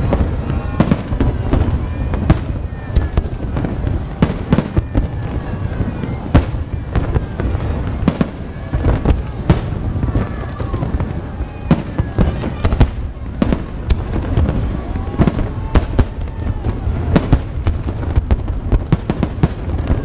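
Fireworks display: a rapid barrage of sharp bangs and crackles, several a second, over a continuous low rumble.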